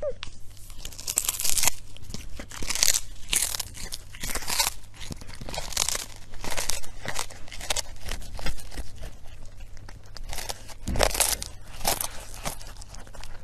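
A kitten chewing and crunching through a small whole fish close to the microphone: a run of irregular, crisp crunches and tearing bites.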